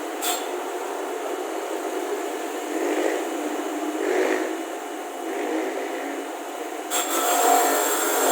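Hand-tool work in a workshop: a few rubbing, rasping strokes, then a louder, higher-pitched power tool starts suddenly about seven seconds in.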